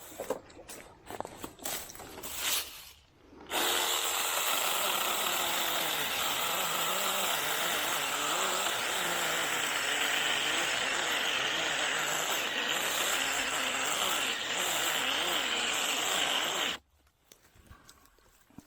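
Small 6-inch cordless mini chainsaw, powered by a DeWalt battery, cutting through a Chinese tallow tree. It starts about three and a half seconds in, runs loudly with its pitch wavering as the motor labours in the wood, and cuts off suddenly near the end. Before it starts there are a few light clicks and rustles.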